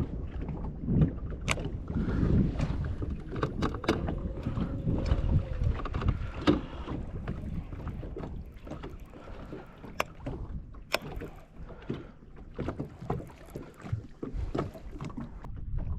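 Wind and water noise aboard a bass boat: an uneven low rumble with scattered sharp knocks and clicks, and no steady engine note.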